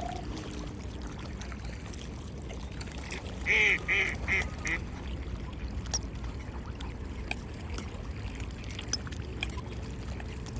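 Ducks quacking: a quick run of about five quacks some three and a half seconds in, over a steady low background noise.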